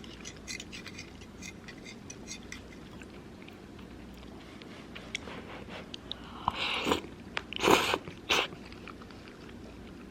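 A person eating close to the microphone: soft chewing and small clicks, then a few louder crunches between about six and a half and eight and a half seconds in.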